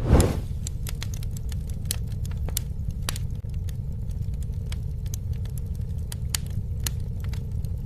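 Campfire crackling, with irregular sharp pops and snaps over a steady low rumble of flames, and one louder burst right at the start.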